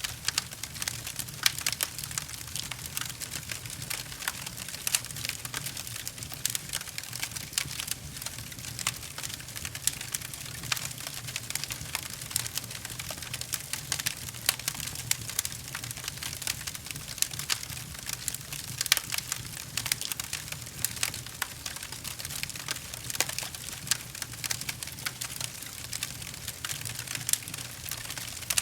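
A wood fire crackling steadily, with a dense run of small pops and snaps and now and then a louder one, over a low steady rumble.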